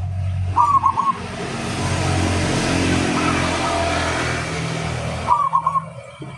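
Zebra dove (perkutut) cooing its short stuttering phrase about half a second in and again near the end. Between the calls, the noise of a passing vehicle swells and fades, and it is the loudest sound.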